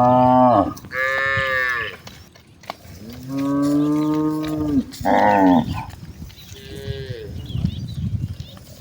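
Several cows mooing in turn, the calls at different pitches from different animals. The longest is a low, drawn-out moo in the middle, and a fainter one comes near the end.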